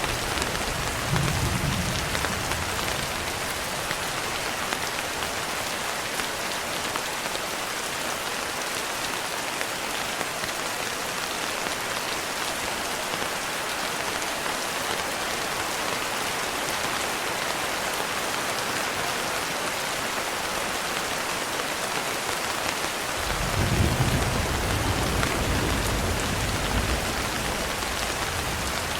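Steady rain falling on a surface, an even hiss. A low rumble of thunder comes briefly about a second in, and a longer, louder roll of thunder lasts a few seconds near the end.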